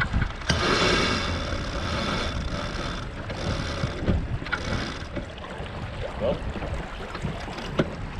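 Wind buffeting the microphone over the rush and splash of water aboard a sailing yacht under way, with surges of hiss about a second in and again a few seconds later.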